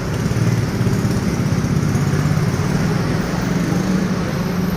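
Ford Escape 3.0 V6 engine idling steadily through a newly fitted exhaust section, with a low, even drone.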